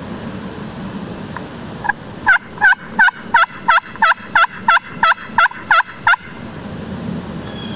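Turkey yelping: a run of about a dozen loud, evenly spaced yelps, roughly three a second, starting about two seconds in and stopping about two seconds before the end.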